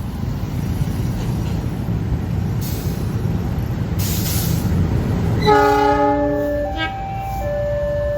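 A train passing close by, its wheels and cars making a loud, steady rumble with two short hisses. About five and a half seconds in, a train horn sounds briefly. Then a two-tone warning alarm starts, alternating high and low about twice a second, typical of an Indonesian level-crossing signal.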